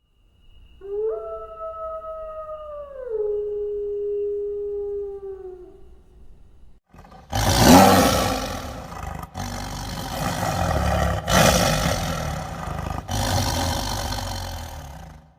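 A canine howl: one long pitched call that steps down in pitch about three seconds in and sags as it ends. About two seconds later a loud, rough animal roar starts and runs in several long stretches separated by brief breaks.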